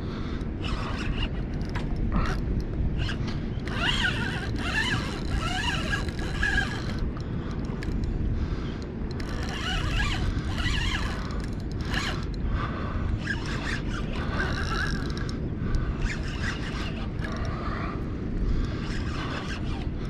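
Fishing reel drag buzzing in short, irregular runs as a big hooked redfish pulls line, over a steady low background noise.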